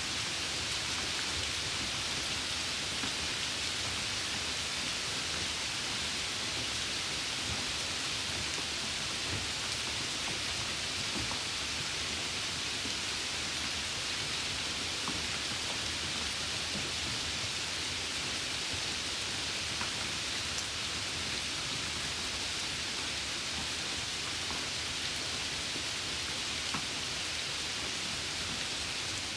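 Steady light rain: an even hiss with a few faint drop ticks.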